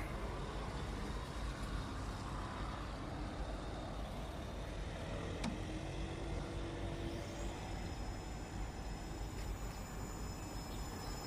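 Steady low rumble of vehicle noise. About seven seconds in, a high whine rises briefly and then holds steady.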